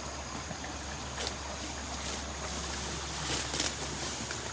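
Rice stalks rustling and swishing as they are cut by hand, a few brief swishes, over the steady low hum of an engine.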